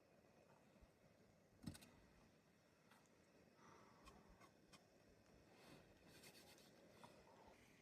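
Near silence with faint scratching and clicking rustles, and one soft knock a little under two seconds in.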